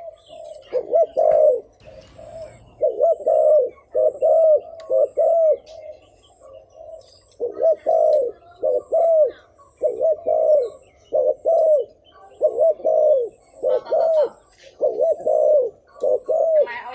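Spotted dove cooing: a run of short, low coos in quick groups, with a pause of about a second and a half midway.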